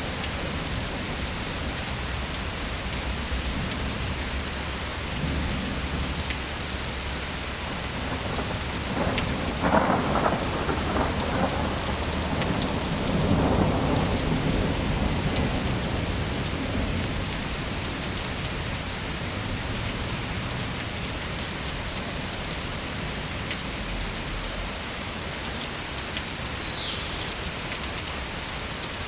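Steady heavy rain, with a low roll of thunder swelling about ten seconds in and fading a few seconds later.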